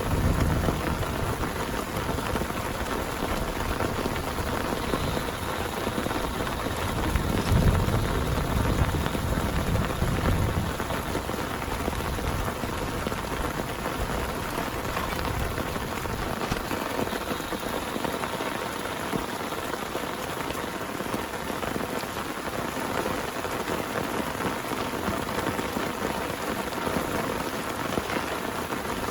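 Heavy rain pouring steadily, a dense even patter. A deep rumble of thunder swells about seven seconds in and fades a few seconds later.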